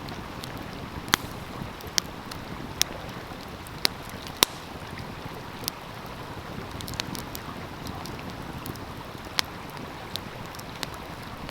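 Wood fire crackling, with sharp irregular pops over the steady rush of a flowing stream; the loudest pop comes about four and a half seconds in.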